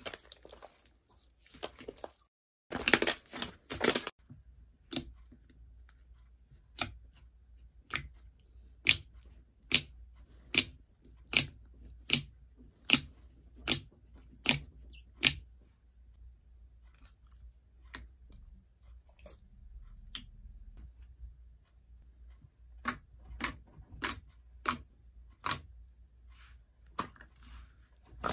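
A series of short, sharp crunching clicks: a loud cluster about three seconds in, then a regular run of strokes about one every 0.8 seconds, and a few more near the end.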